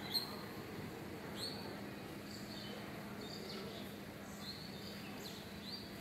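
Birds chirping: short, high calls with quick pitch glides, repeated at irregular intervals, over a faint steady low hum.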